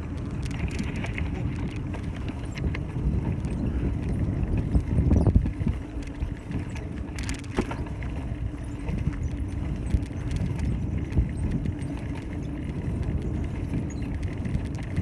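Riding noise from a bicycle on a town street: a steady low rumble of wind on the microphone and tyres on the road, with scattered light clicks and rattles, swelling louder about five seconds in.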